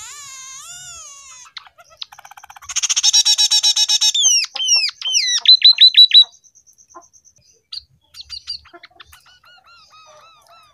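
Scaly-breasted munia (emprit peking) singing a canary-style song it has learned. Whistled notes slide up and down, then a loud, rapid, buzzy trill comes about three seconds in, followed by falling sweeps and a fast run of repeated notes. A few faint chirps close the song.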